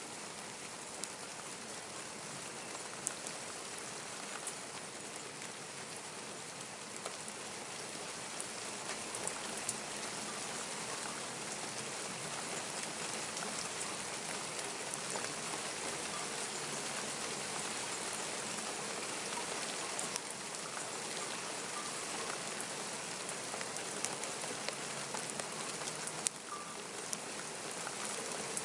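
Steady rainfall, with scattered sharper drops pattering close by; it grows slightly heavier about a third of the way in.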